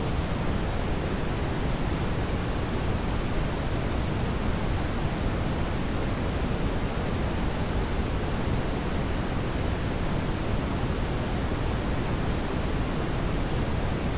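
Steady brown noise: an even, unchanging rumbling hiss, heaviest in the bass.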